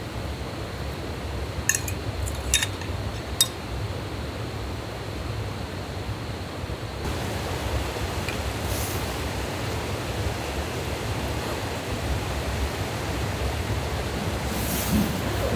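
Steady rushing outdoor background noise, with three short sharp clinks in the first few seconds as gear is handled.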